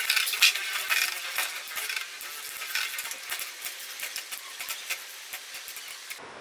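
Two Metal Fusion Beyblade spinning tops, Lightning L-Drago and Rock Leone, spinning in a stadium, their metal wheels clashing and scraping in a dense run of sharp clicks and rattles. The sound fades steadily as the tops lose speed.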